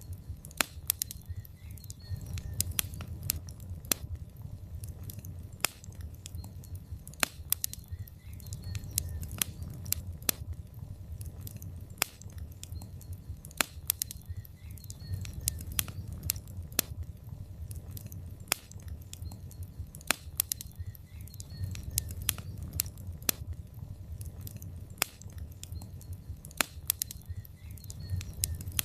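Wood logs burning in a fireplace, crackling with frequent irregular sharp snaps and pops over a low steady rumble of the flames.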